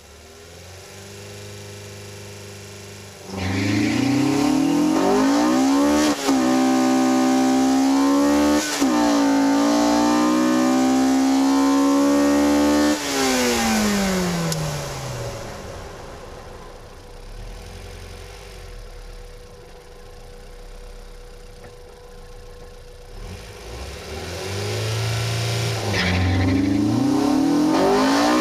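Honda Civic's B18C6 1.8-litre DOHC VTEC four-cylinder heard from inside the cabin: idling, then launched at full throttle and revved up through the gears with two quick upshifts, pulling hard for about ten seconds before the throttle lifts and the revs fall away. Near the end the engine revs hard again and pulls through another shift as a second run begins.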